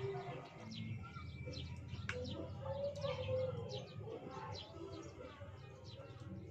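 Birds chirping again and again in short, high chirps over a low steady background hum.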